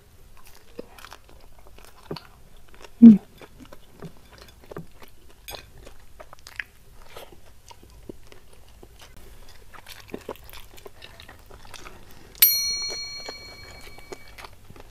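Close mouth sounds of chewing fried stuffed tofu with sambal: many small crunches and wet chewing clicks. A short hum about three seconds in, and a bell-like ding near the end that rings and fades over about two seconds.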